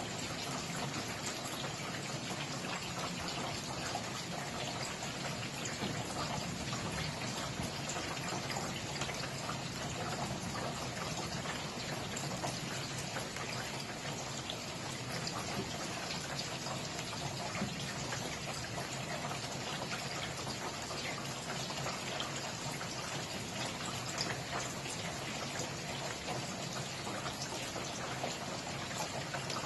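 Steady rain, a dense even hiss of falling water with many small drop patters.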